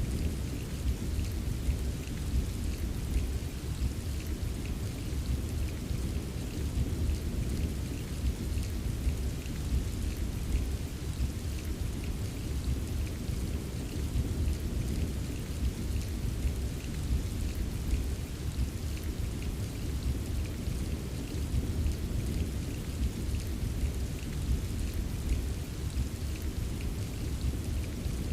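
Steady rain ambience: an even wash of rainfall with many small drop ticks over a deep, continuous low rumble.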